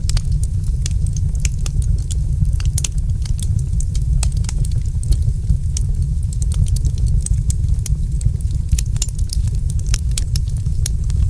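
Wood fire in a fireplace crackling: many quick, sharp pops and snaps at irregular intervals over a steady low rumble.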